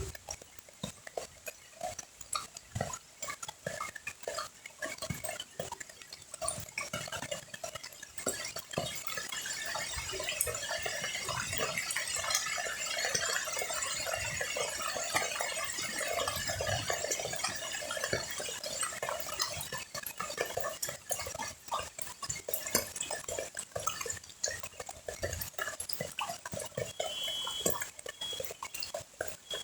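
Rain falling on a pond's surface, a dense pattering of countless drops. It becomes heavier and more even about eight seconds in, then thins out again near the end.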